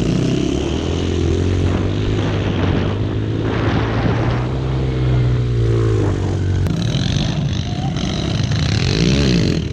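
Yamaha TT-R110 pit bike 110cc four-stroke single-cylinder engines running, the pitch rising a little in the middle. The sound changes abruptly about two-thirds of the way through, and the engine pitch swings up and down near the end.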